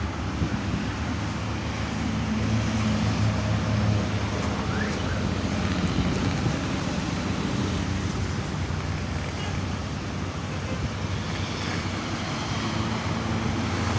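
Steady road traffic on a toll road: the low engine hum and tyre noise of passing vehicles, swelling and easing as they go by.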